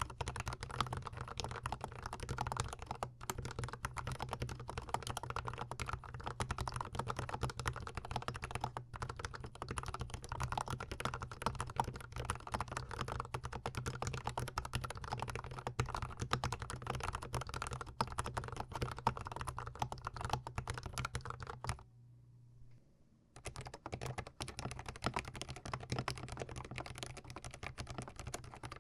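Fast, continuous typing on a GMMK Pro mechanical keyboard fitted with Gateron Yellow linear switches, a dense run of keystroke clacks close to the keyboard. The typing stops for about a second around two-thirds of the way through, then carries on.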